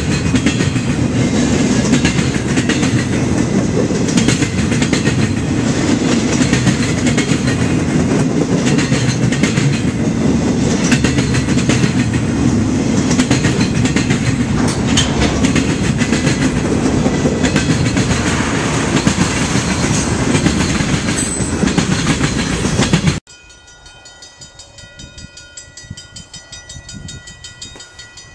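Freight train's cars rolling past, a loud steady rumble dense with the clatter of wheels over the rail joints. About 23 seconds in it cuts off abruptly to a much quieter passage with a distant train horn sounding steady tones.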